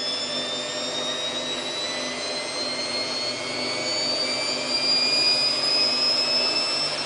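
Samsung WF8804RPA washing machine spinning up in its service test mode, its motor and drum whine rising steadily in pitch as the spin speed climbs from about 400 toward 800 rpm.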